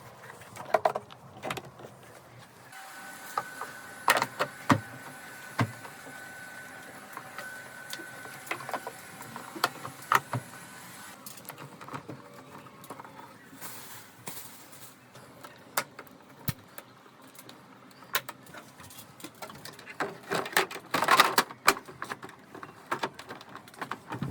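Scattered clicks, knocks and clatter of parts and tools being handled, with a denser burst of clatter about 20 seconds in. A small electric motor whines steadily for several seconds near the start.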